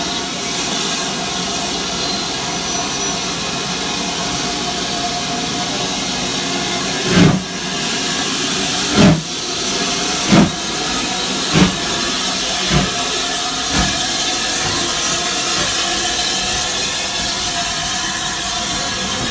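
BR Standard Class 5 steam locomotive pulling away: a steady hiss of steam, then about six exhaust chuffs from around seven seconds in, coming quicker and fainter as it gets under way.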